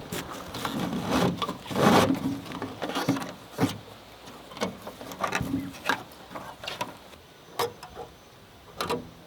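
A series of irregular knocks and clatters, a few of them sharper, with rubbing and rustling between them.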